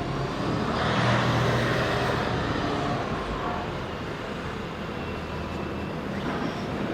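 City road traffic: a motor vehicle passes close by, swelling about a second in and then fading back into a steady traffic hum.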